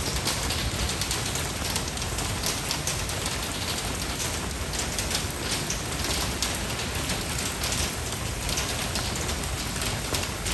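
Steady rain falling: a dense patter of individual drops over an even hiss, with a low rumble underneath.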